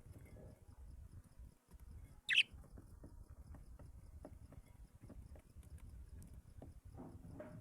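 A bird gives one short, sharp call about two seconds in, over faint scattered ticks.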